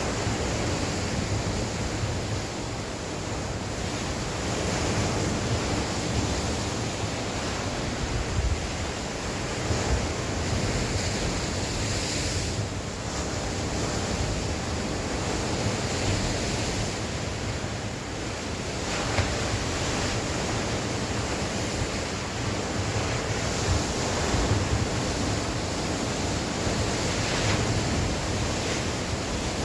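Sea waves breaking and washing on the shore, a continuous rushing surf that swells and eases, with wind buffeting the microphone in low rumbles.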